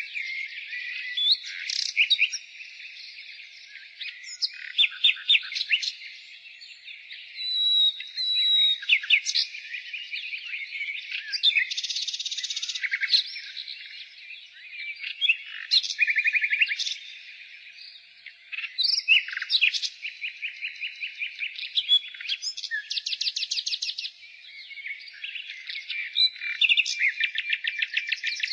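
Nightingale singing: varied phrases of fast repeated notes, trills and whistles, separated by short pauses.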